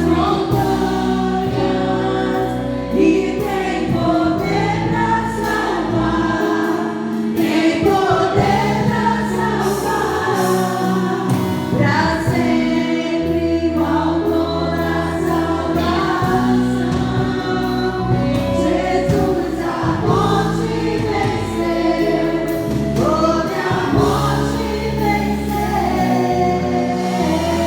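Gospel worship song sung by several voices together over long held low chords.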